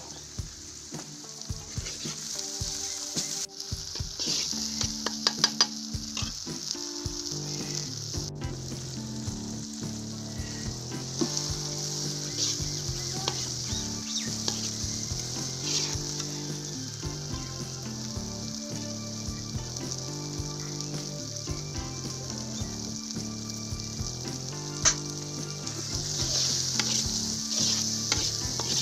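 Chopped onions and tomatoes sizzling in oil in an iron kadai while a steel spoon stirs them, scraping and clicking against the pan.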